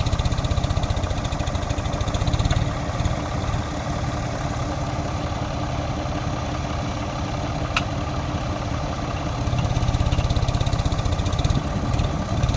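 Tractor diesel engine running steadily with a low, fast pulsing beat. It eases off a little after a few seconds and picks up again near the end, and there is one sharp click in between.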